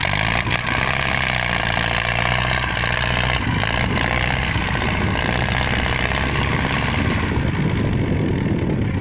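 Tractor diesel engine running steadily, loud and continuous.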